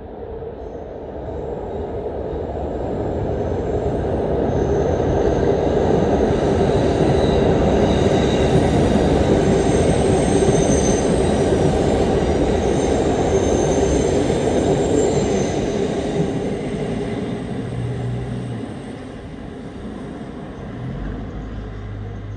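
JR West Series 321 electric commuter train passing overhead on elevated track: a loud rumble of wheels on rails that builds over about six seconds, holds for about ten, then fades. Faint high-pitched whine in the middle of the pass.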